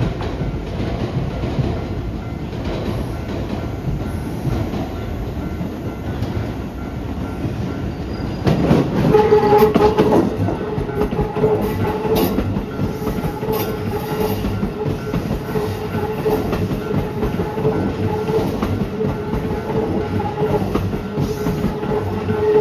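Keisei 3700-series electric train passing over a level crossing, its running noise swelling loudest about nine seconds in, with a run of sharp knocks from the wheels over the crossing. A steady pitched tone sets in at the same point and holds on.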